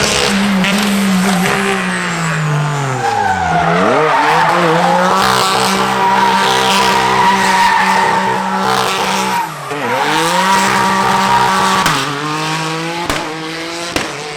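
Drift car engine held at high revs with its tyres squealing. The revs dip sharply and climb back twice, about three and a half and nine and a half seconds in.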